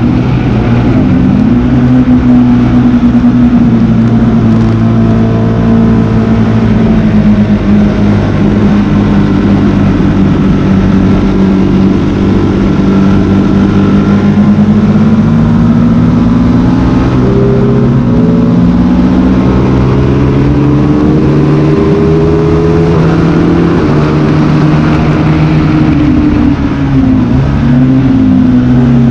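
Motorcycle engine running hard on a race circuit lap, its note falling and rising with throttle and gear changes, with two quick dips in pitch near the end.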